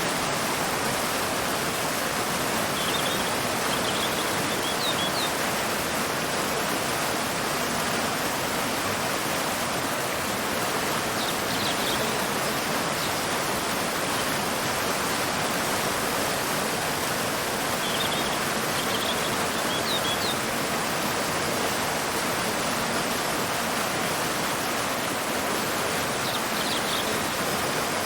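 Waterfall cascading into a river: a steady, even rush of falling water. A bird chirps faintly about every seven or eight seconds.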